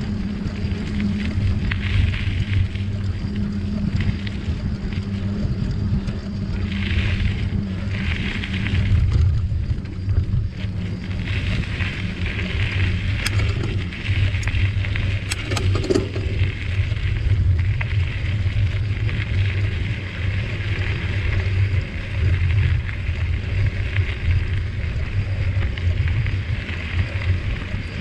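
Riding a bicycle on a forest trail: a steady low rumble of wind on the microphone and tyres rolling, with a higher hiss that comes and goes and a few sharp clicks or rattles partway through.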